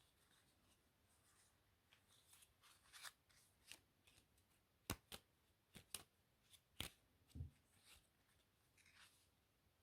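Playing cards handled close to the microphone: soft rustling with scattered sharp clicks, a handful of loud snaps between about five and seven seconds in, and one low thump just after.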